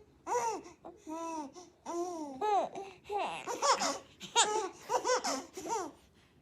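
A baby laughing in a run of high-pitched squealing giggles, a few to the second, that stops about six seconds in.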